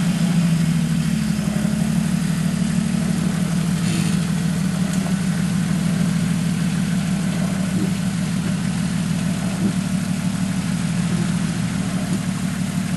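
Off-road vehicle engine idling steadily while it is eased back on a rocky waterfall climb.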